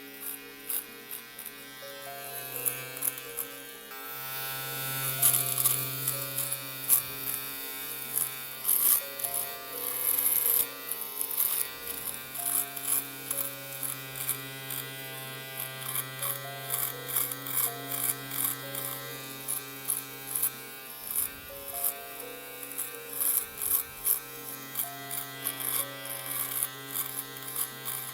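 Electric shaver buzzing steadily as it shaves, with irregular sharp crackles about one or two a second.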